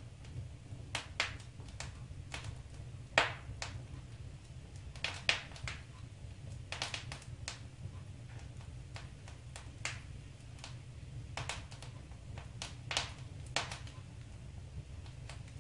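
Wood fire crackling in a fireplace: irregular sharp pops and snaps, some in quick clusters, over a low steady rumble.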